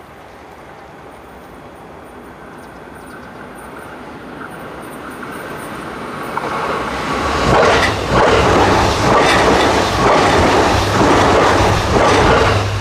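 Electric commuter train approaching and passing close by. It builds from a faint rumble to a loud, rhythmic clatter of wheels over rail joints from about seven seconds in.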